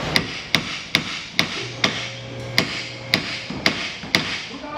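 Hammer pounding on two steel pickle forks (ball joint separators) wedged into a stuck ball joint, about two sharp metal-on-metal blows a second, driving the joint apart.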